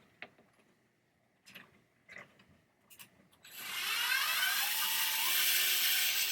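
A few light clicks of a driver bit being set on a screw, then, about three and a half seconds in, a cordless power drill/driver starts running steadily, backing out a screw.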